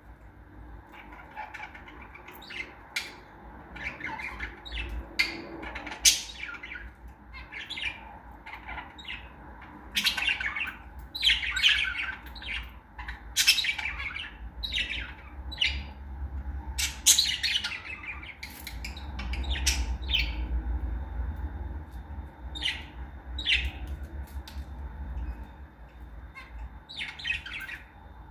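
Pet lovebirds squawking and chirping in quick, sharp calls all through, with a low rumble in the background from about halfway.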